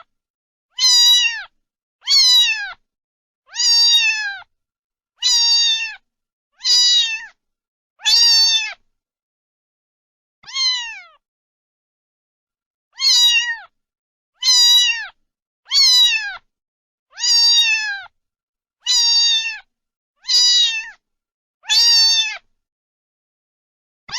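A cat meowing over and over, about one meow every second and a half, each short call falling in pitch at its end. There is a longer pause around the middle, broken by one weaker meow.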